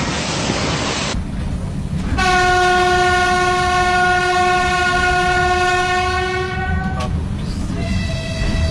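A broad rushing noise cuts off about a second in, giving way to the low rumble of a running train. The locomotive's air horn then sounds one long, steady blast of about five seconds, and near the end a second horn tone of a different pitch starts.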